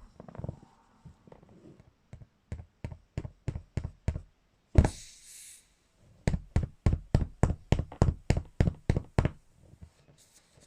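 Crowbar striking an inflated beach ball again and again: a run of knocks about three a second. One louder hit near the middle is followed by a short hiss, then comes a second run of about a dozen blows.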